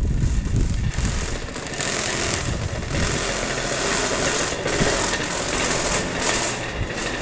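Car running with steady engine and road noise, heard from inside the vehicle.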